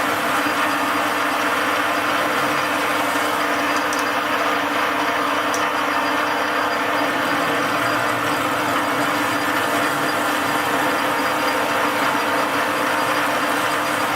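Metal lathe running steadily while it machines a 45-degree taper on a screw head, with a constant motor hum and cutting noise. Two light ticks come about four and five and a half seconds in.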